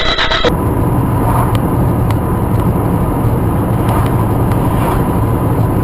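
Steady engine and road noise of a moving car recorded by a dashcam, a continuous low hum with a faint steady tone above it.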